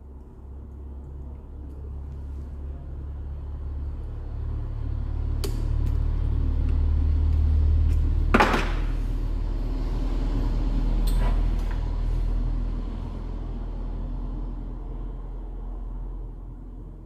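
Low rumble of a passing vehicle, swelling to its loudest about eight seconds in and then fading away. Three sharp knocks sound over it, the loudest near the rumble's peak.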